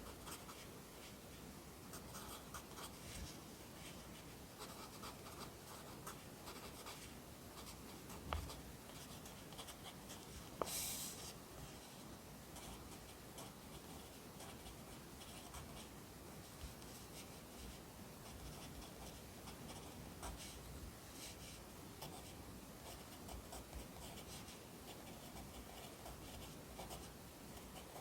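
Pencil writing Korean letters on paper: soft, irregular scratching strokes, with a couple of sharper taps about eight and ten seconds in.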